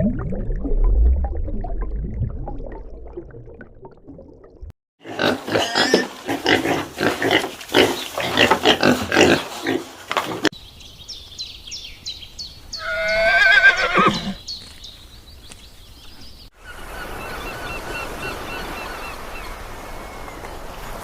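A run of different animal calls, one after another: a low rumbling call, then a fast series of rhythmic grunting pulses, then a single horse whinny that falls steeply in pitch, then a steady chorus-like background with faint repeated calls near the end.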